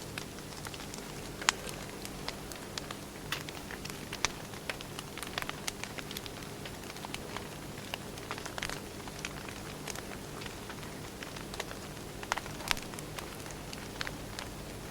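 Wood fire burning: a steady soft hiss with irregular crackles and pops. A few sharper snaps stand out, about a second and a half in and again near the end.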